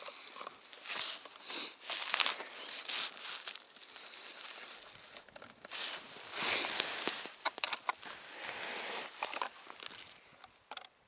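Irregular rustling and crunching noises with sharp little crackles, coming and going in uneven bursts.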